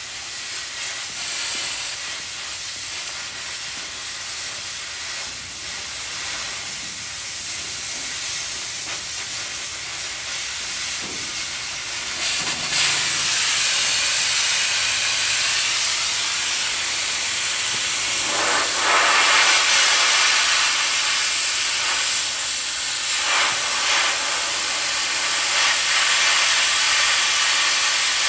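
Oxy-fuel cutting torch flame hissing steadily as it cuts steel. About twelve seconds in it grows clearly louder and stays loud, with a few surges.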